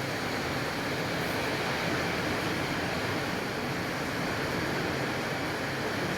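Rain falling in a strong wind, a steady rushing noise.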